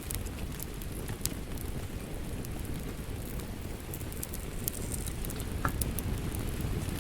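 Wood fire crackling with scattered sharp pops over a steady patter of rain.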